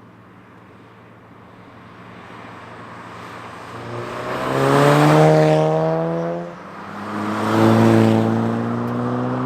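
Volkswagen four-cylinder with a resonator-deleted exhaust accelerating hard as the car approaches and passes, its exhaust note rising in pitch and growing loud. It drops briefly at a gear change about six and a half seconds in, then pulls again through the next gear.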